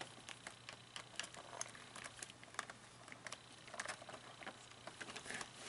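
Faint, irregular small clicks and taps of plastic parts and pins being handled and fitted in an animatronic figure's gear housing.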